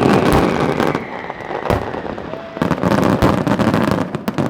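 Fireworks going off in quick succession: a dense volley of bangs and crackling, with a falling whistle early on.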